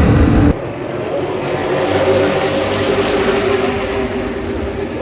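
Super stock race car engines running at speed during a race. About half a second in, the sound drops suddenly in level and loses its deep low end, then continues as a steady engine note.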